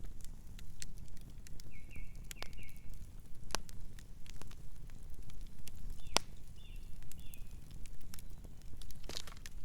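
Campfire burning: a low steady rumble of flames with sharp crackles and pops from the wood, two louder pops a few seconds apart. Short faint high chirps come twice.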